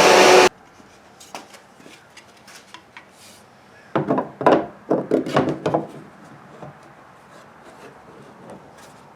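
Shop vacuum running, switched off about half a second in. Then scattered light clicks and, from about four to six seconds, a run of scraping, rubbing strokes on the kayak's plastic hull.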